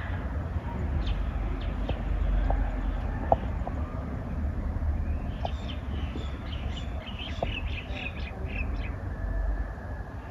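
Outdoor ambience with a steady low rumble and a few scattered clicks. A bird chirps in a quick run of short, high notes from about halfway through to near the end.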